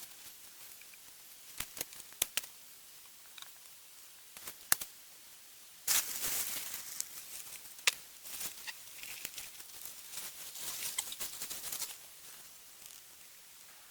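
Dry twigs and leaves crackling and rustling, with several sharp snaps and two longer bouts of crackly rustling in the middle.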